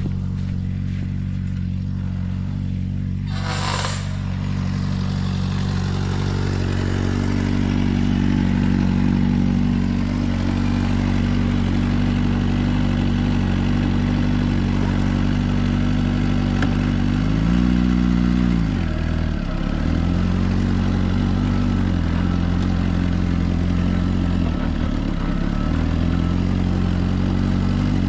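Suzuki GSR 400 inline-four engine running through a Yoshimura exhaust at a steady cruise, with a brief rush of noise about four seconds in. Past the middle the revs rise and then drop sharply, as at a gear change, and dip once more near the end.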